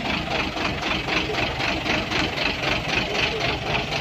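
Large diesel truck engine idling with a steady, rapid pulsing beat.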